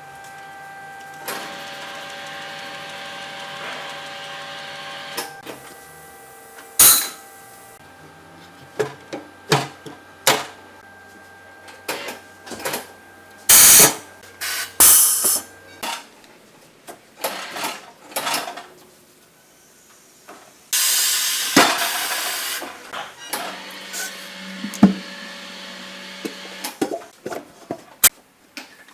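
Tyre-shop work: stretches of hissing compressed air, with scattered sharp knocks and clanks of tools and parts.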